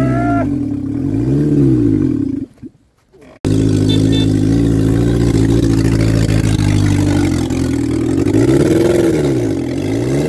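Fiat Seicento's small petrol engine revving hard, its pitch rising and falling twice, then held high and steady, then rising and falling again near the end. The sound cuts out briefly about a third of the way in.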